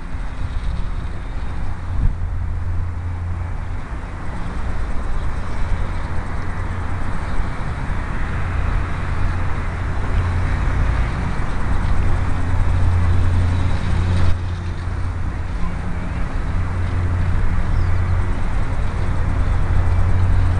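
Gusting wind buffeting the microphone: a steady low rumble under a broader rushing hiss that swells in the middle, with a brief break about fourteen seconds in.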